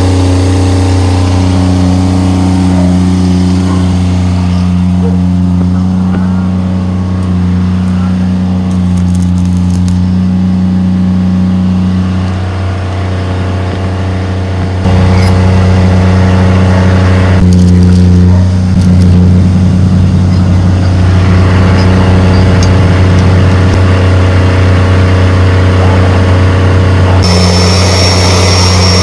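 A motor running steadily at a constant speed, making a loud, even low hum with overtones.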